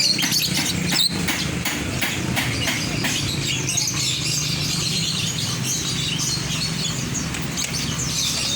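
Many caged birds chirping and twittering at once, short overlapping calls throughout. A steady low hum runs underneath, and there is a sharp knock about a second in.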